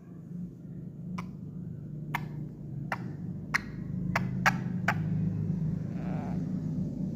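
A parrot taps its beak sharply on a hard surface, about seven irregularly spaced clicks over a few seconds, over a steady low hum.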